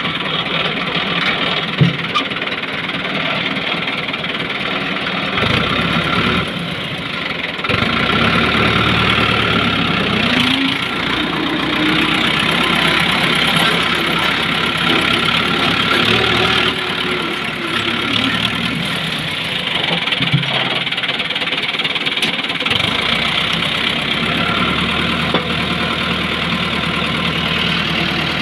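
Tractor engine running steadily, with a couple of short clunks.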